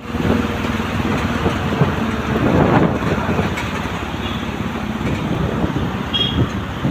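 Steady low rumble of a running vehicle with road noise.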